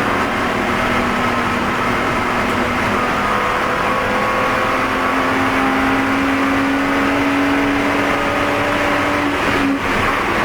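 Spec E46 BMW race car's straight-six engine running hard under load, heard from inside the car, its pitch climbing slowly through the middle, with a brief dip near the end as the throttle lifts or a gear changes.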